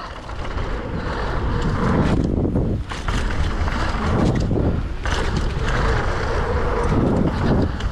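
Wind buffeting the microphone of a camera carried on a fast downhill run, a heavy, uneven rumble and hiss with rattling from the ride.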